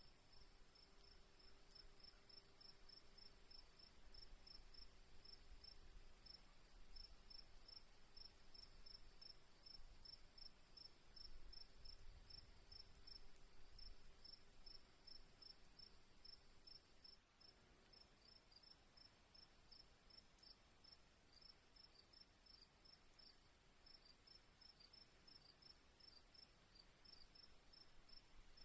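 Crickets chirping quietly in a steady rhythm, about three chirps a second, over a continuous high-pitched insect trill.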